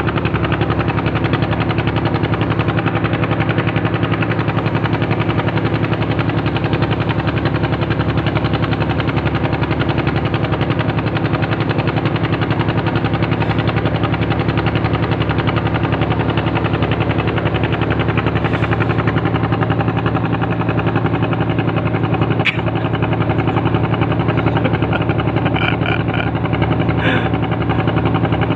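A ship's engine running steadily at idle, a loud even drone with a fast, regular throb. There is a single sharp click about two-thirds of the way through, and a few faint short tones near the end.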